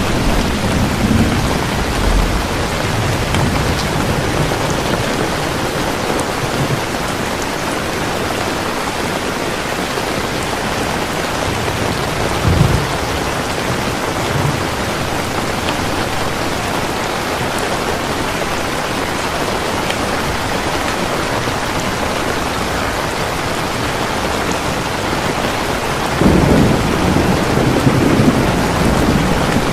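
Steady heavy rain, with low rolls of distant thunder at the start, briefly about twelve seconds in, and again near the end.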